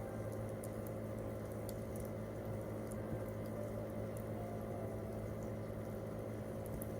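Campfire crackling, with frequent small sharp pops of burning wood scattered irregularly over a steady low background.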